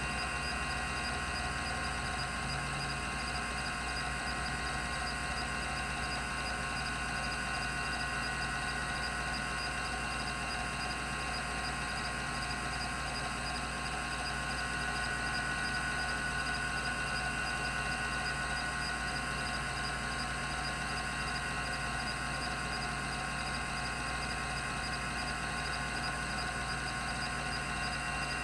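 Rodime RO352 3.5-inch hard drive, two platters spinning at its 3600 RPM running speed: a steady hum and whine of several fixed tones, without seek clicks.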